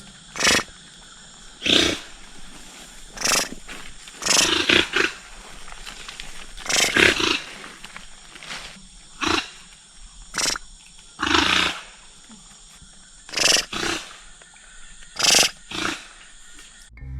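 A wild animal giving a series of short roars, about a dozen of them, irregularly spaced a second or two apart.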